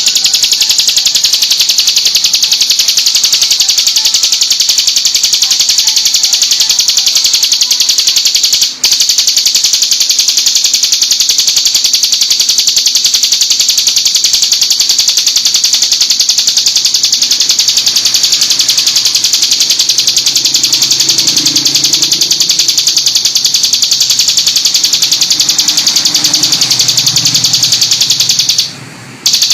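Ciblek gunung (mountain prinia) singing a continuous, very rapid high-pitched buzzing trill, its rapid-fire 'tembakan' song. It breaks off for an instant about nine seconds in and again briefly just before the end.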